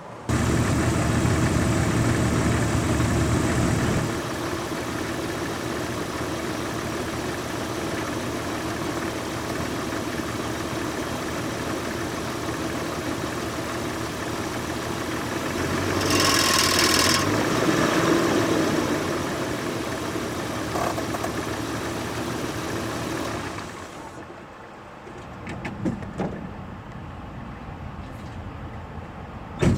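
1996 Jeep Cherokee XJ engine running under way, loud for the first few seconds, then steady, with a louder rushing stretch around the middle and easing off near the end, where a short knock comes just before it stops. This is the whoosh, tick and rattle that the owner hears only when accelerating forward, which began after he replaced the valve cover gasket, PCV valve and PCV breather hose and whose cause he doesn't know.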